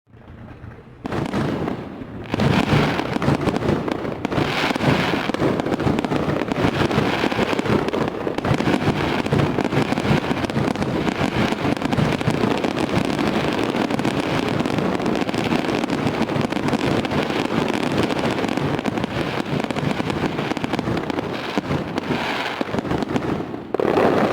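Fireworks display: a dense, continuous barrage of bangs and crackling that starts out of silence about a second in and builds up a second or so later.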